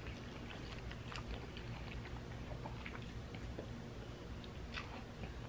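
Faint chewing and slurping of spaghetti noodles, with small wet mouth clicks.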